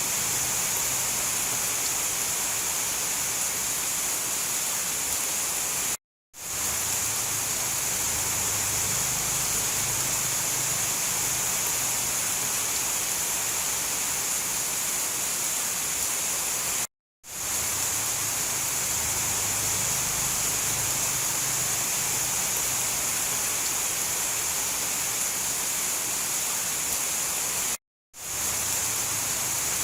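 Steady rain with a bright high hiss over a faint low rumble, cutting to silence for a split second three times, about eleven seconds apart, and fading back in each time.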